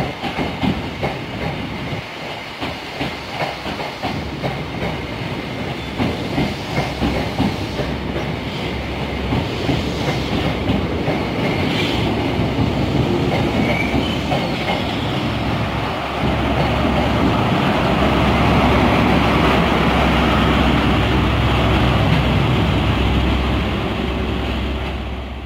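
Passenger train pulling out past the platform: its wheels click over the rail joints at first, and the clicks quicken into a steady, louder rumble as it picks up speed.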